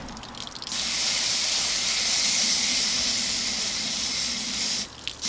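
Garden hose spray nozzle jetting water onto a window air conditioner's coil fins to wash out dirt: a steady hiss that starts about a second in and cuts off briefly near the end as the trigger is let go.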